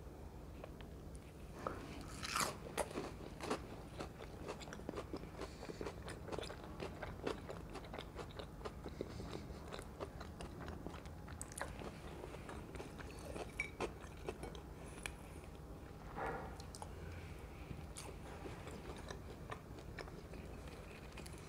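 Close-miked biting and chewing of a crispy, gram-flour-battered potato pakora: crunching hardest about two seconds in, then irregular crackly chewing.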